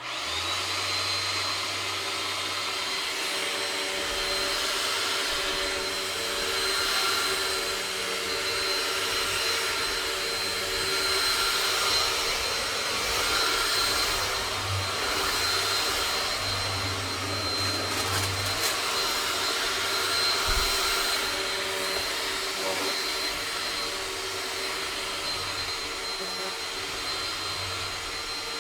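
Vacuum cleaner switched on, its motor spinning up to a steady high whine within the first second and running on evenly.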